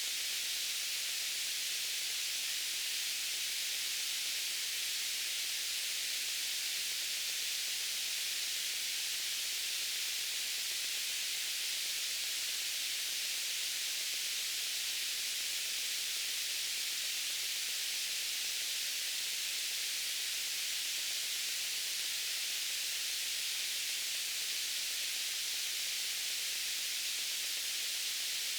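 Steady white-noise hiss, even and unchanging, weighted toward the high end with little low rumble.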